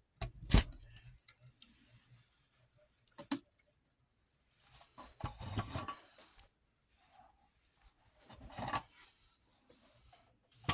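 Handling noises from a partly dismantled 8mm film viewer: a sharp click about half a second in and another just after three seconds, then two longer bursts of scraping and shuffling as its parts are moved about.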